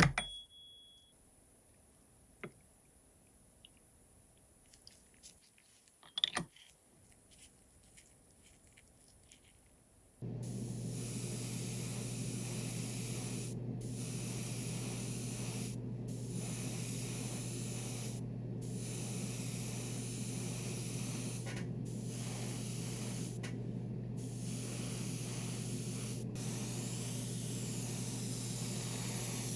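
A few light clicks and knocks, then about ten seconds in an airbrush and its compressor start: a steady low hum under a spray hiss, the hiss cutting out briefly about half a dozen times while the hum carries on.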